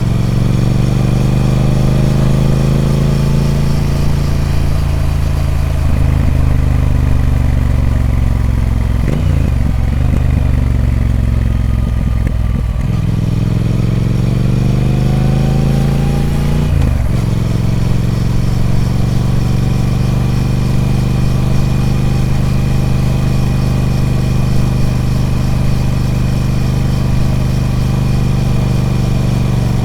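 Triumph Speed Twin 1200's 1200cc parallel-twin engine through its stock exhaust, on the move: the engine note falls as the bike slows, picks up again about halfway through, and after a gear change a little past the middle it settles into a steady cruise.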